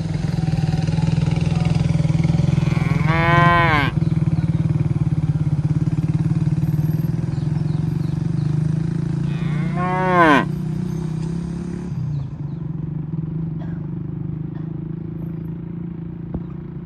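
Cattle mooing: two calls, each rising then falling in pitch, about three seconds in and again about ten seconds in. A steady low hum runs underneath and fades at about twelve seconds.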